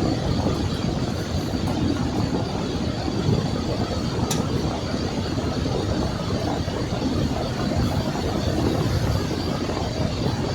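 Steady rumble of a car driving on a snowy road, heard from inside the cabin, with a single sharp tick about four seconds in.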